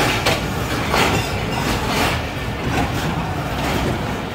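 Passenger train coaches rolling along a station platform, heard from on board: a steady rail rumble with a few louder wheel clacks about a second apart.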